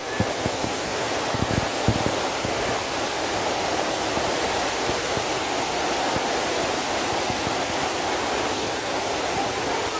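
Steady rushing of falling water from the Kaveri river's falls and rapids, an even noise with a few low bumps in the first two seconds.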